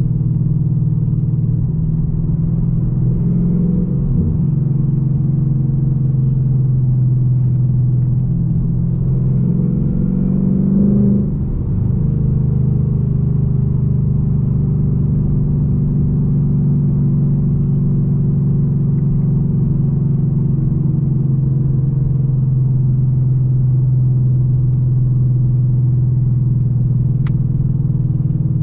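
2021 Ford Mustang GT's 5.0-litre V8 running steadily on the move. The revs rise about ten seconds in, then drop off with a brief dip in level just before twelve seconds.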